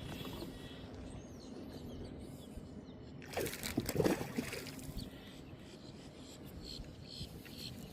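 Faint trickling and lapping of water, with a brief louder noisy sound about three and a half seconds in.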